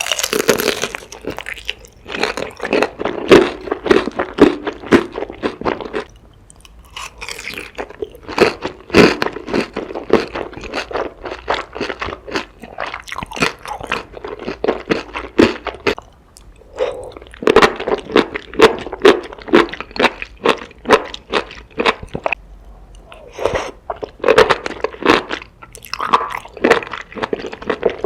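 Close-miked eating: crunchy food bitten and chewed in rapid runs of sharp crunches, with a few short pauses between mouthfuls.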